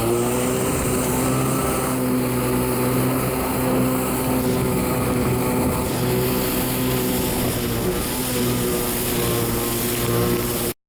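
Kawasaki 650SX stand-up jet ski's two-stroke twin engine running steadily under way, its pitch shifting slightly up and down with the throttle. The sound cuts off suddenly near the end.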